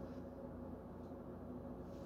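Quiet room tone: a faint steady hum over low background noise, with no distinct sounds.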